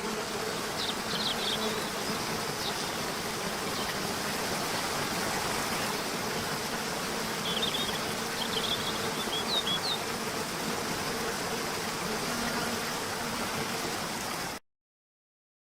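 Steady outdoor nature ambience: an even rushing hiss under a faint low buzz. Brief high chirps come about a second in and again around eight to ten seconds. It cuts off abruptly near the end.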